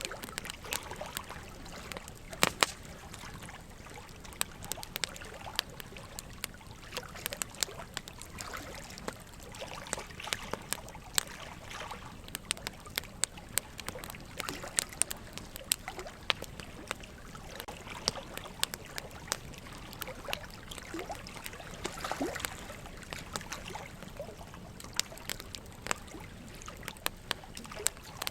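Wood fire crackling, with frequent irregular sharp pops and snaps, over a steady trickle of running water.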